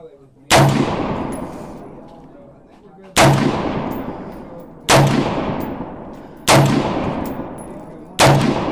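Five gunshots from a magazine-fed firearm fired one at a time at a slow, unhurried pace, each sharp crack trailing off in a long echoing decay.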